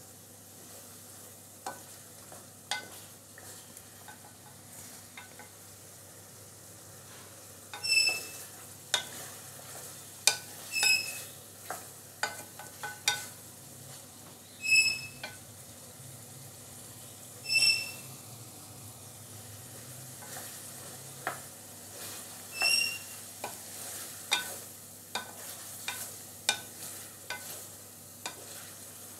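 Mutton and sliced carrots sizzling as they fry in a metal pot, stirred and scraped with a wooden spoon that now and then knocks the pot with short ringing clinks. This is the bhuna stage, the frying-down before water is added.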